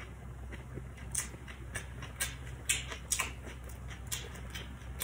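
Chewing a mouthful of crispy Vietnamese fried spring rolls (chả giò) wrapped in lettuce: irregular crunches and wet mouth clicks, about three a second.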